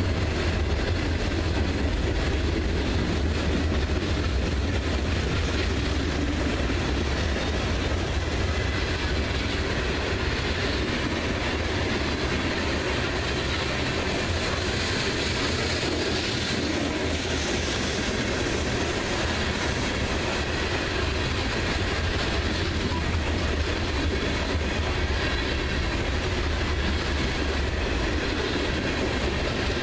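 Freight train's boxcars and covered hopper cars rolling past, a steady rumble of steel wheels on the rails.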